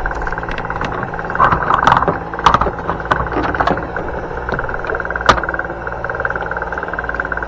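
Fishing boat's engine running steadily, with a burst of clattering knocks from about one and a half to four seconds in and a single sharp click a little after five seconds.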